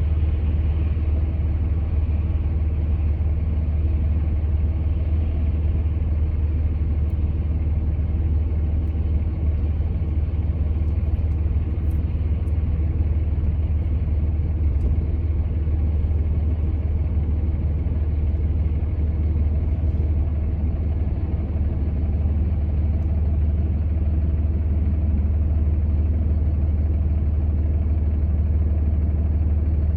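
Steady low engine and road rumble of a truck under way, holding even throughout.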